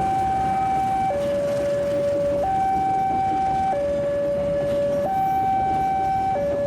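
Railway level-crossing warning alarm sounding a slow alternating two-tone, high and low notes each held about a second and a quarter, over a steady low rumble.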